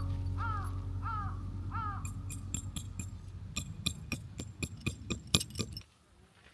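A crow cawing four times in a row, each caw a short arched call. It is followed by a quick irregular run of sharp clicks and light metallic clinks that stops suddenly about six seconds in.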